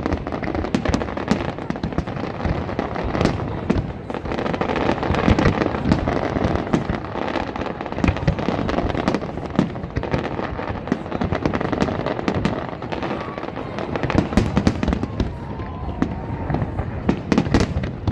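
Fireworks display: a dense, continuous barrage of bangs and crackling shell bursts, many overlapping.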